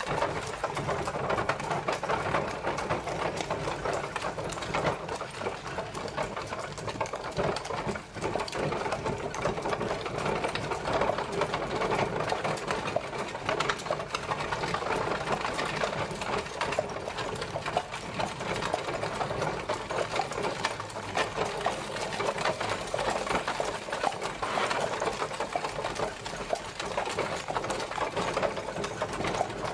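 Horse-drawn carriage on the move: a continuous fast clatter and rattle of the rolling carriage, with a brief dip about eight seconds in.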